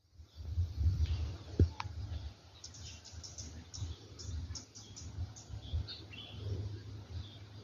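Birds chirping, a quick run of short high chirps in the middle, over a steady low rumble.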